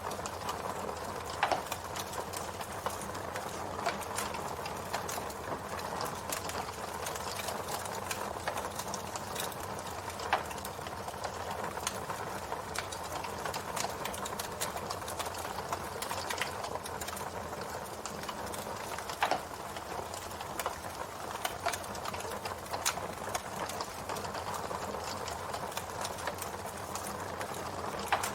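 Campfire burning: a steady hiss of flames with frequent small crackles from the wood and a handful of sharper pops.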